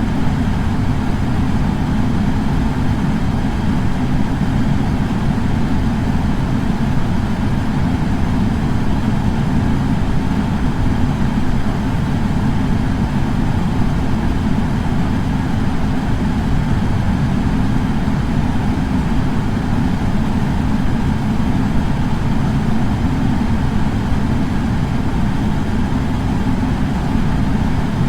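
Air purifier fan running with a steady, even rush of air, heaviest in its low rumble.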